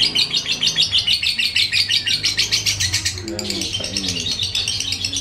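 Lovebird singing a long, unbroken trill of rapid high chirps, about eight to ten notes a second, the long 'jebol' song of a bird in full form. A short low gliding voice-like call sounds about three seconds in.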